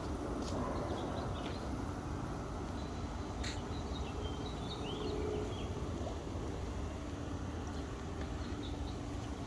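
Steady low rumble with a faint hum, and a few faint bird chirps about four to five and a half seconds in.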